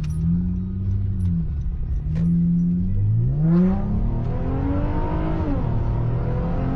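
Exhaust of a 9th-generation Honda Accord with a J-pipe and muffler delete: the engine runs steadily, is revved up about three seconds in with the pitch climbing for a couple of seconds, then drops back and settles.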